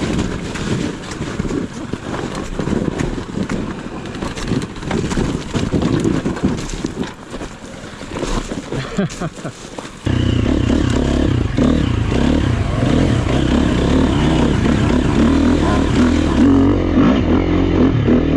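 Dirt bike engine under way on a trail, rising and falling with the throttle, with wind and ground noise on the helmet-camera microphone. About ten seconds in it changes abruptly to a louder, steadier engine sound.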